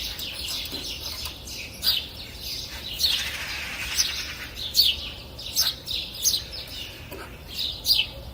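Several birds chirping and twittering, many short downward-sliding notes overlapping, with a brief hiss of noise about three seconds in.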